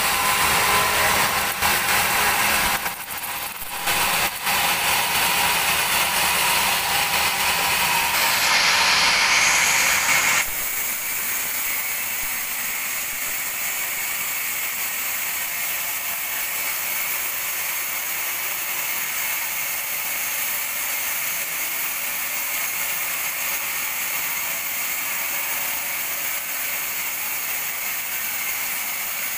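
Sawmill bandsaw and its machinery running loud with a mechanical clatter while working a teak log. About ten seconds in, the loud cutting noise stops abruptly, and a steadier, quieter machine running sound continues.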